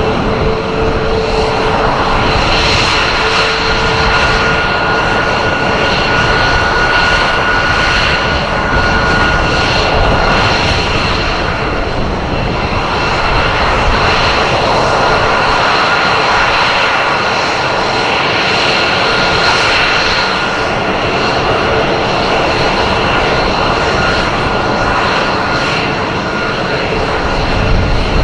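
F-22 Raptor's twin turbofan engines running loud and steady during a flying display, with a steady high whine over the broad jet noise.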